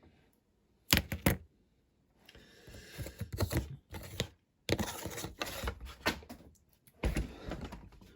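Small hand tools working thin cardboard on a workbench: a quick run of sharp clicks and taps about a second in, then bouts of scraping and rubbing as a crease is pressed into the card, with another sharp tap near the end.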